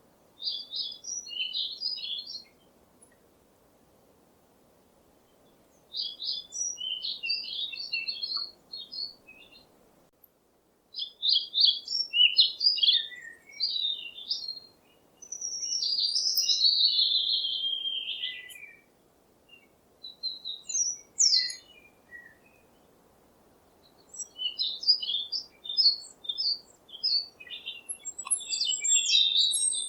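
Bird chirping: bursts of quick, high twittering phrases separated by pauses of a few seconds, with one longer phrase that slides downward midway. A faint steady hiss lies underneath.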